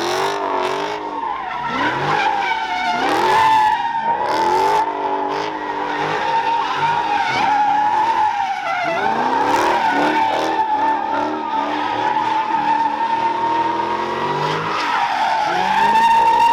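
Car tyres squealing in a long, steady screech as a driver spins the wheels, with the engine revving up and down repeatedly underneath. The tyres are being worn down hard by the wheelspin.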